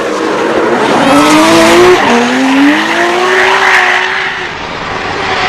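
A drift car's engine revving hard with its tyres squealing in a slide. The engine pitch climbs, drops sharply about two seconds in, then climbs slowly again.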